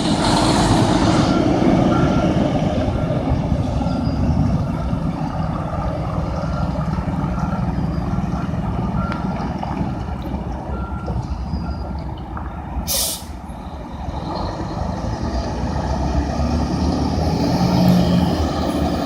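Dump truck diesel engine running while a reversing alarm beeps about once a second as the truck backs up. About two-thirds of the way through comes one short hiss of the air brakes.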